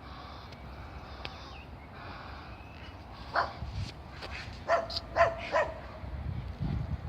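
An animal giving short, loud, pitched calls: one about three seconds in, three close together around five seconds, and another at the very end, over a steady background hiss.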